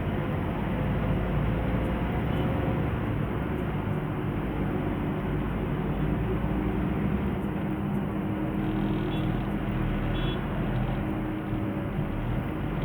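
BharatBenz truck's diesel engine running steadily under way, with a low drone and road noise.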